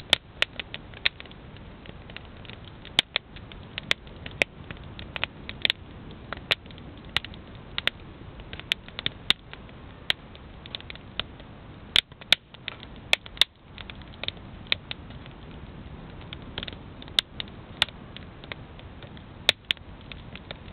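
Wood campfire crackling: irregular sharp pops and snaps, sometimes several in a second, over a steady low hiss.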